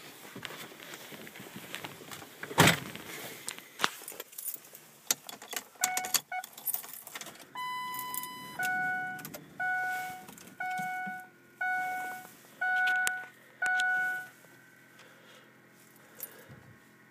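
Keys jangling with scattered clicks and one loud knock a few seconds in, then the 2003 Ford F-250's warning chimes as the key is turned on: one held tone followed by six evenly spaced chimes about once a second. A faint steady hum follows; the engine is not yet cranking.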